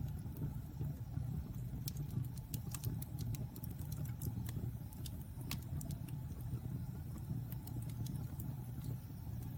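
Wood fire crackling in a fireplace: a low steady rumble of burning with scattered sharp pops and snaps, thickest in the middle of the stretch.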